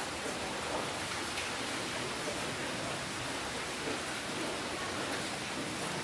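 Steady rainfall, a dense even hiss of falling rain with scattered individual drop ticks.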